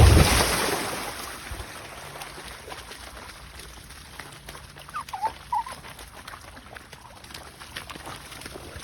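A loud rush of noise at the start that fades over about a second and a half. Then a low background with faint clicks, and two short soft chicken calls about five seconds in.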